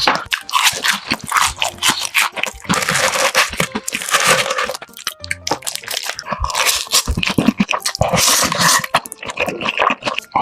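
Close-miked eating sounds: a person crunching and chewing food in quick, irregular bites, over background music.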